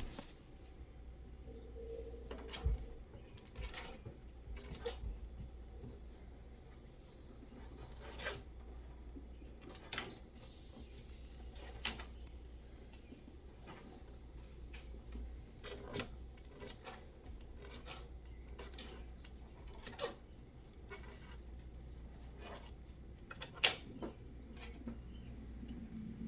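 Faint scattered rustling and scratching with light taps, and a few sharper clicks spread a second or more apart, over a low steady hum.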